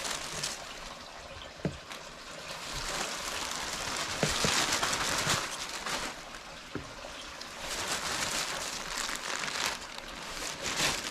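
Spring water trickling and pouring. It swells louder around the middle, with a few light knocks.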